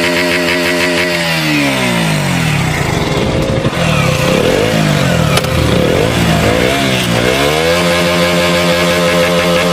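KTM Duke 125's single-cylinder four-stroke engine and exhaust, idling steadily, then revved up and down several times before settling back to idle near the end.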